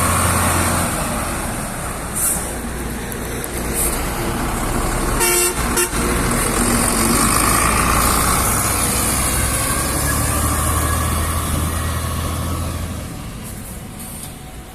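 Heavy truck engine running with a steady low drone and a short horn honk about five seconds in. The engine sound fades near the end.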